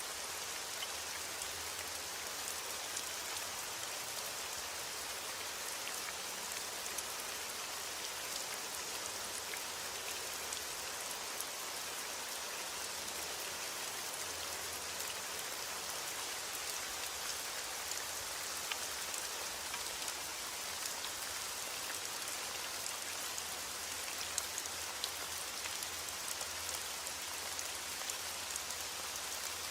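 Steady rain falling and pattering on a surface, a constant hiss with scattered drop ticks and no thunder.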